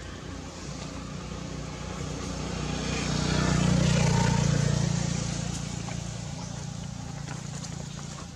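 A motor vehicle's engine passing by: a low hum that grows louder to a peak about four seconds in, then fades away.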